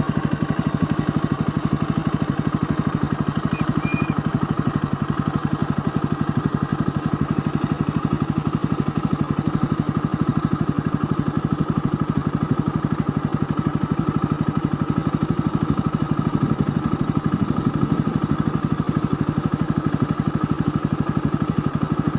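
Motorcycle engine running steadily with an even, rapid pulsing beat.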